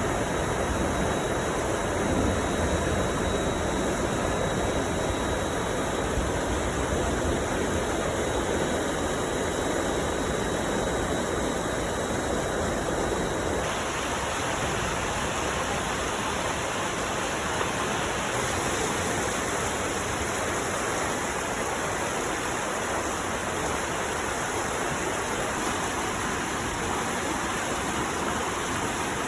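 Storm runoff rushing steadily down an urban arroyo. The sound shifts about fourteen seconds in.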